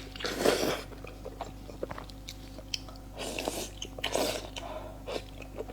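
Close-miked eating: a person biting and chewing food with wet mouth noises. There are three louder noisy bursts, each about half a second long (right at the start, about three seconds in and about four seconds in), with small clicks in between.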